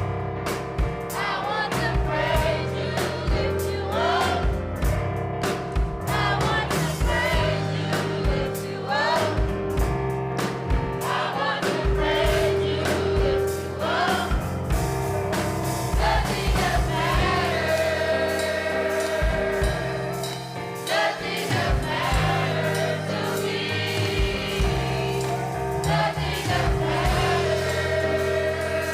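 Gospel choir singing with a live band, with steady bass notes under the voices and regular drum hits.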